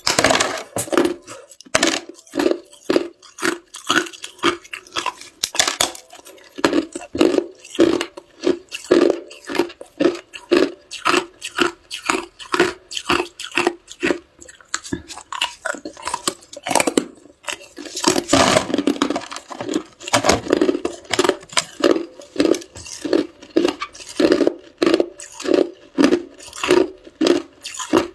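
Ice being chewed with the mouth close to the microphone: a steady run of sharp crunches, about two to three a second, with a denser burst of crunching a little past halfway.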